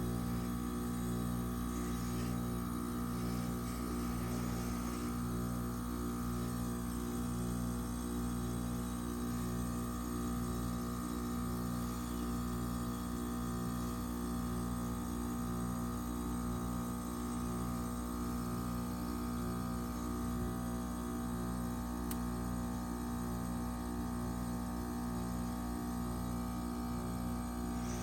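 Trane XR14 3.5-ton heat pump outdoor unit running in defrost mode: a steady hum made of several fixed tones with a light hiss above them.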